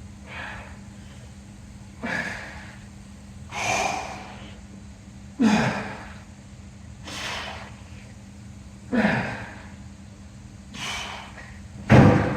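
A man breathing hard with the effort of dumbbell curl reps: a forceful breath about every two seconds, eight in all, the strongest near the end, over a steady low hum.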